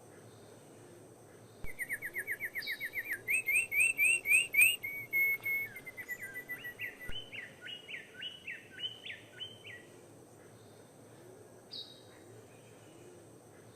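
A bird singing: a long song of rapid repeated notes that starts about two seconds in, changes its pattern several times and stops about ten seconds in, followed by a couple of short single calls.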